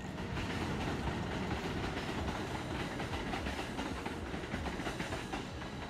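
New York City subway train running along the track, a steady noise that eases slightly near the end.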